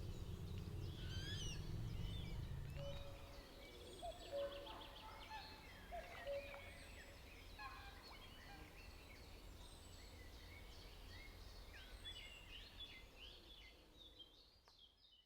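Several songbirds singing and calling together in woodland, with a few short, lower calls about four and six seconds in. A low rumble underlies the first few seconds, and everything fades out near the end.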